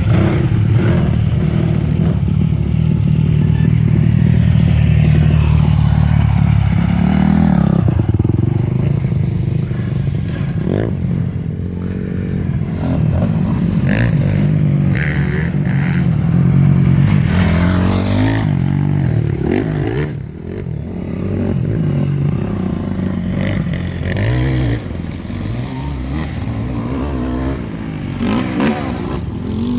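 A KTM 950 Adventure's big V-twin engine running hard as the bike is ridden, revving up and dropping back again and again with the throttle. It eases off briefly about two-thirds of the way through.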